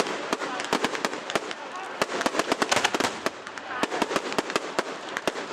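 Fireworks going off in a rapid run of sharp cracks and bangs, several a second, with people's voices underneath.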